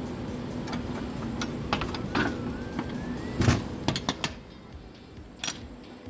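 Semi-trailer rear swing door being shut: light metal clicks and a squeak, then a heavy slam about halfway through, followed by several clanks of the door's lock rods and handles. A steady hum fades out just after the slam.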